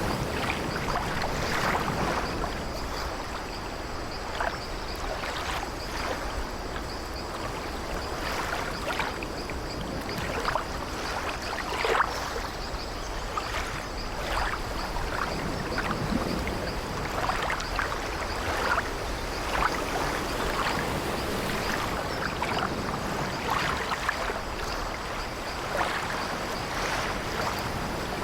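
Sea waves washing steadily, with the wooden timbers of an old ship creaking in short, irregular creaks every second or two.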